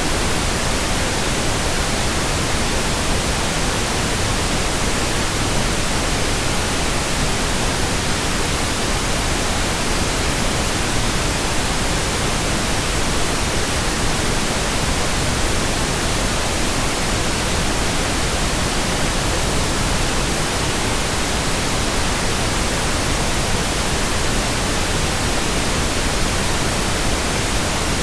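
Steady, unbroken white noise, an even hiss spread across the whole range from low to high, with no change in level.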